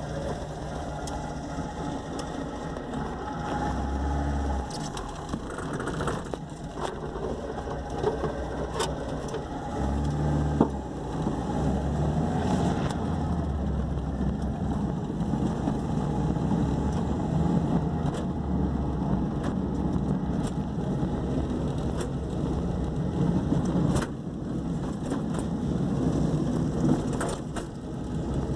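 Old Ford Escort's engine running, heard from inside the cabin, growing louder about a third of the way in, with a few sharp clicks. The engine is one the owner calls nearly blown.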